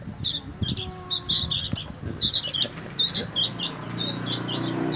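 Sooty-headed bulbul (kutilang) chicks cheeping in quick, high, repeated calls: their begging to be fed. A low steady hum comes in near the end.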